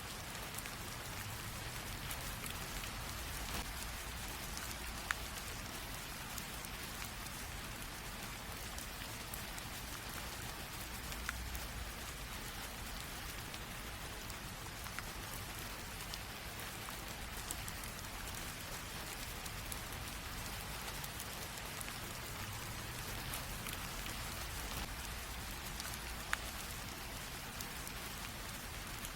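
Light rain falling steadily, a soft even hiss with scattered individual drops ticking sharply on a hard surface.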